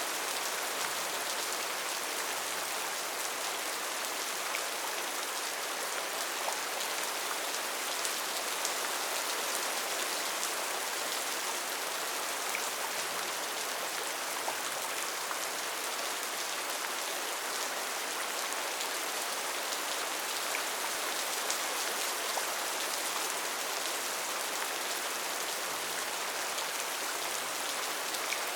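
Steady rainfall pattering on rainforest foliage, an even hiss with scattered individual drops ticking.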